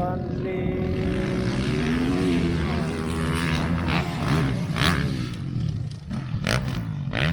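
Motocross bike engines revving hard, the pitch rising and falling as the riders work the throttle, with a few short sharp sounds in the last few seconds.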